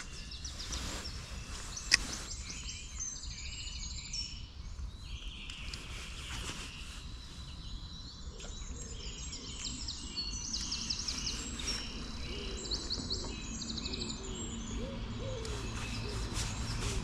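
Small birds singing, with short repeated high chirps and trills over steady outdoor background noise; a single sharp click about two seconds in.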